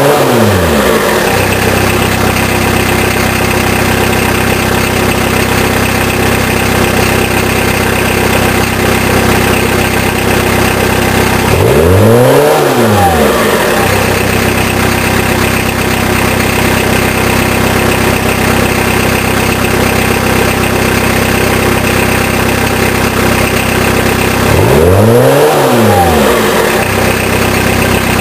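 Peugeot 306 turbodiesel with a straight-through exhaust idling steadily, blipped three times: the revs rise and fall quickly at the start, about twelve seconds in and near the end.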